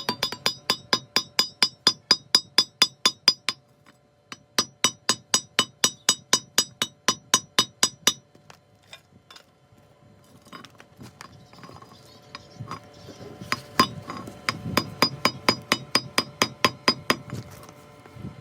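Hammer striking metal in quick, even blows, about five a second, each with a metallic ring. The blows come in three runs of several seconds with pauses between them.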